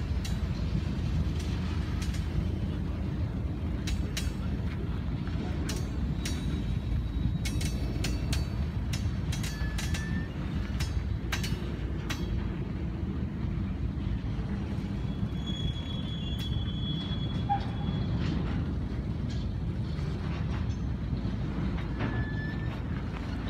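Freight train of covered hopper cars rolling past with a steady low rumble. Its wheels click sharply and repeatedly over rail joints through the first half, and a brief high wheel squeal sounds about two-thirds of the way through.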